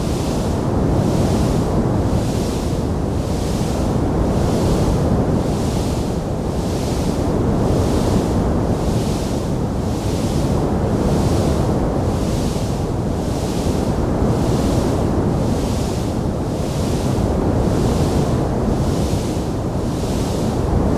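Steady low rushing noise with a hiss that swells and fades at a regular beat, about once a second, and no crackles or pops.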